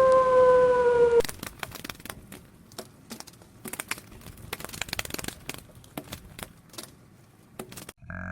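A dog's held howl ends abruptly about a second in, followed by several seconds of faint, irregular clicks and crackles.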